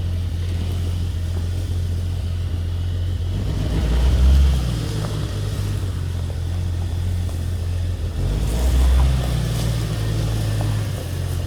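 Off-road vehicle's engine running at low revs in first gear, swelling louder twice, about four and nine seconds in, as it takes more throttle.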